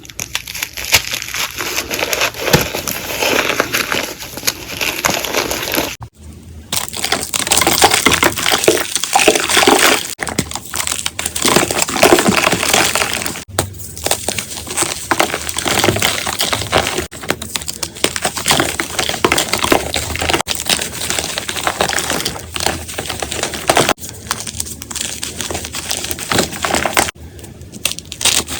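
Blocks of gym chalk being crushed and crumbled: dense, continuous crunching and crackling, in a run of short clips joined by abrupt cuts.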